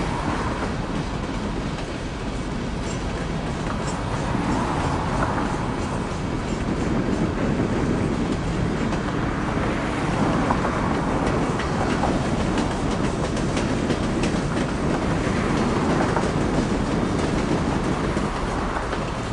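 Empty coal hopper cars of a freight train rolling steadily past, with a steady run of wheel clicks over the rails.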